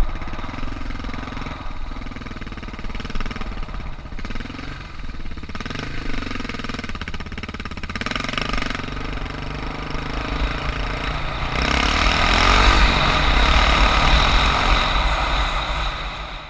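Suzuki DR650's single-cylinder four-stroke engine running at low speed, its revs rising and falling. It gets louder with more hiss from about twelve seconds in.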